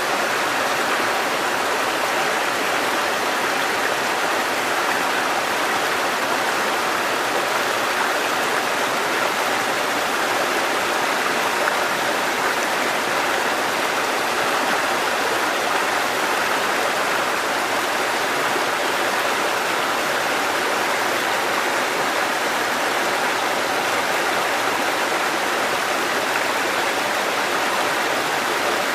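Water cascading down a mountain stream over rocks: a steady, unbroken rush.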